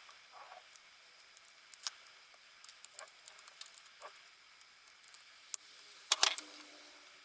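Faint, scattered light clicks and taps of small metal engine parts being handled as the piston is fitted during two-stroke scooter engine assembly, with a louder short clatter about six seconds in.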